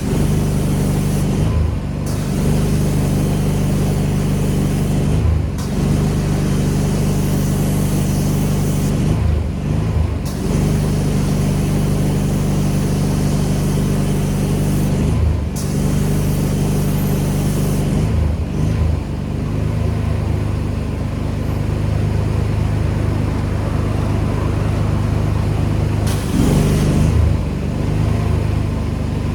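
Pressure washer running: a steady engine hum under the hiss of the high-pressure water spray. The spray hiss cuts out briefly about seven times, and the engine pitch dips and recovers at each break.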